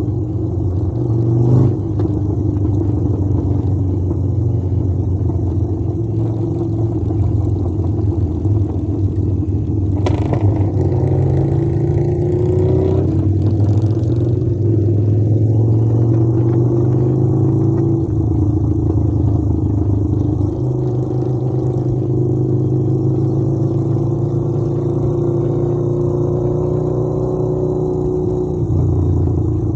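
Harley-Davidson motorcycle's V-twin engine running steadily, its pitch rising and falling slightly, with a brief rush of noise about ten seconds in.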